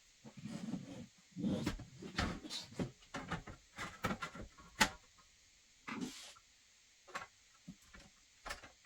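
Computer parts being handled: a busy run of clicks, knocks and rustling for the first few seconds, then a few scattered single clicks.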